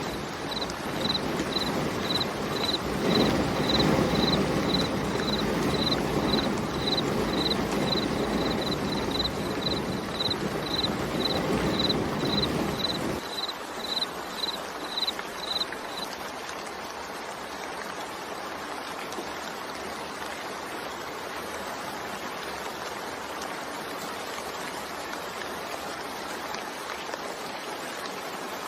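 Steady rain falling, heavier and fuller for the first half, then thinning to a lighter hiss about 13 seconds in. For the first 16 seconds a high, even chirp repeats about twice a second over the rain.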